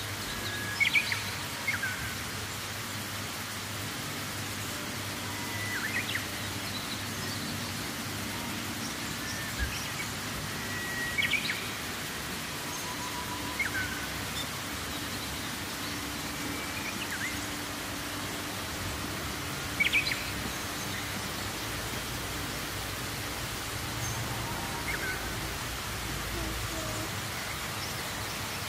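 Short bird chirps every few seconds over a steady outdoor hiss.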